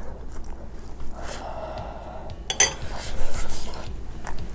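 A person chewing a mouthful of crispy pan-fried fish, with a few light clicks of a fork on a plate and one sharper click past the middle.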